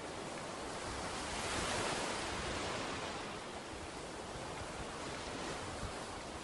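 Ocean surf: waves breaking and washing up a beach, one wash swelling louder about two seconds in.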